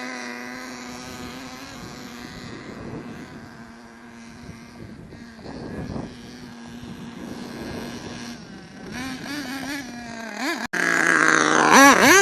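HPI Savage nitro RC truck's S25 engine buzzing as the truck drives off. It fades, then comes back and gets loud near the end, its pitch swinging up and down with the throttle. The engine is running a little rich, as the owner suspects.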